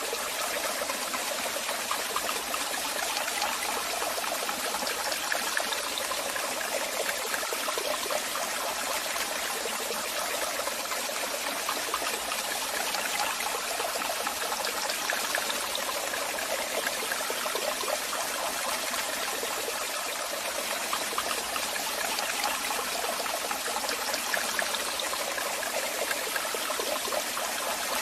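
Waterfall: water falling and splashing in a steady, unbroken wash of sound, mostly high and hissy with little deep rumble.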